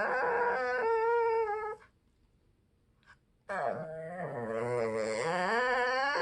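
A dog giving long, drawn-out vocal calls that waver in pitch: one ends about two seconds in, and after a short pause another begins and carries on past the end.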